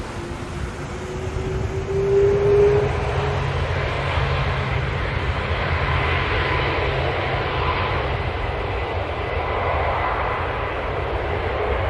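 Jet airliner's engines running, the noise swelling about two seconds in and staying strong, with a thin steady whine over the rumble and a rising whine near the end.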